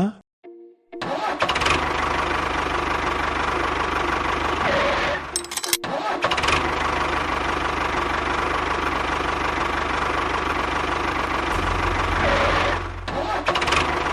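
A small motor running steadily, starting about a second in, with a brief drop about five seconds in.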